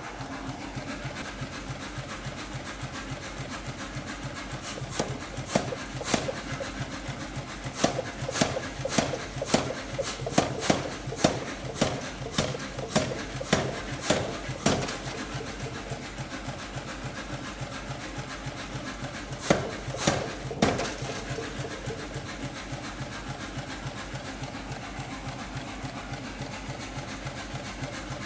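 Power hammer forging a forge-welded steel-cable billet: a fast mechanical beat throughout, with louder sharp metal strikes about two a second from about five to fifteen seconds in and three more around twenty seconds.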